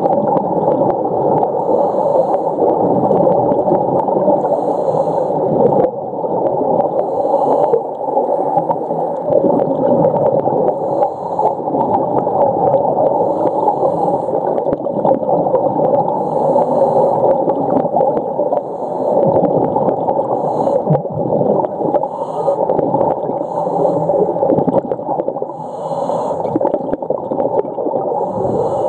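Underwater sound picked up by a snorkeller's camera: a steady dense rushing noise, with short hissy bursts recurring every second or two.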